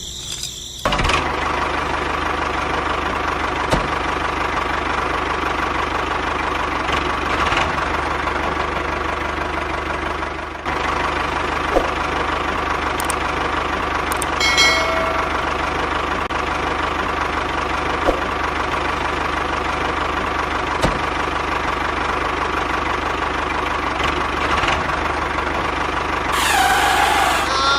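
Small engine of a homemade mini tractor running steadily, starting about a second in, with a brief dip near the middle.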